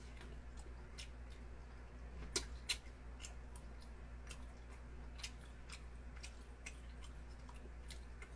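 Eating sounds: soft wet mouth clicks and smacks of chewing chewy wide starch noodles, with two sharper clicks about two and a half seconds in, over a low steady hum.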